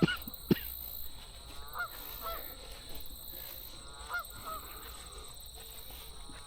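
Geese honking, short calls coming a few at a time over the water. Two sharp clicks in the first half second are the loudest sounds.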